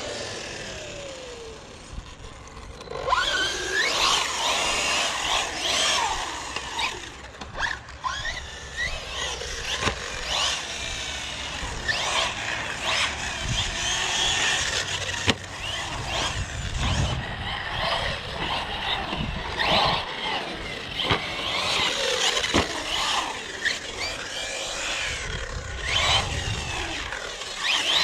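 Electric RC car being driven hard on wet concrete: its motor whines up and down in pitch with the throttle while the tires squeal and skid, with a few sharp knocks. It is quieter for the first few seconds, then louder from about three seconds in.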